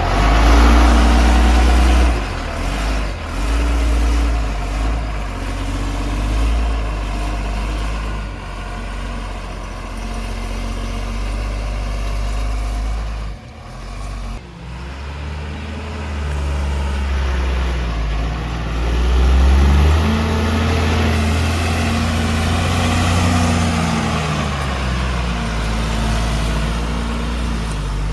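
JCB 3DX backhoe loader's diesel engine working under load, revving up and falling back again and again, with a short drop in revs about halfway through.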